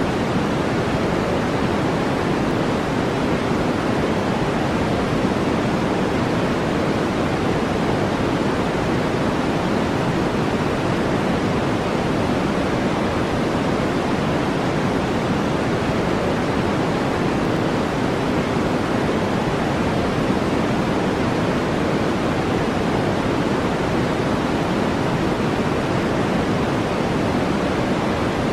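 Steady brown noise: an even, unchanging deep hiss, heavier in the low end than in the highs.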